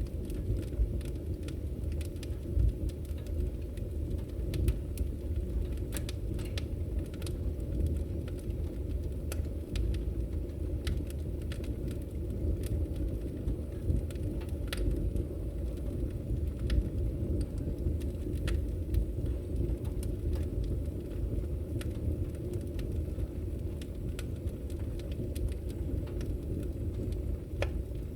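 Wood fire crackling in a fireplace: scattered sharp snaps and pops, irregularly spaced, over a steady low rumble of burning logs.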